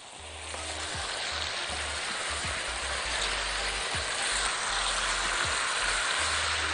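Strips of chicken breast sizzling steadily in hot oil and butter in a frying pan, searing rather than stewing in their own juices. The sizzle grows louder over the first second and then holds.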